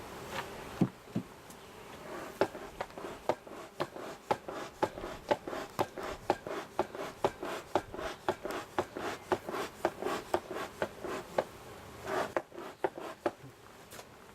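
Honeybee hive being worked: a fast, even run of short scraping strokes, about three a second, lasting some ten seconds, over a steady low buzz of bees.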